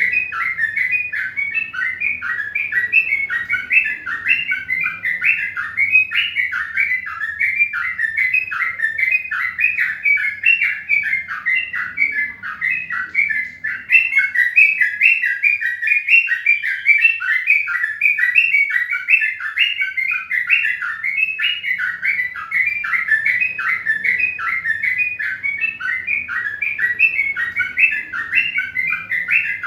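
Many small birds chirping rapidly and continuously, a dense unbroken chorus of short high chirps.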